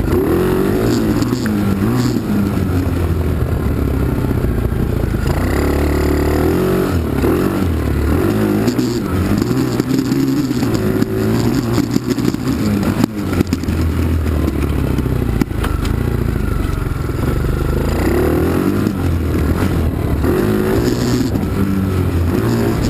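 Small four-speed dirt bike engine running while ridden, revving up and dropping back several times as it accelerates and shifts.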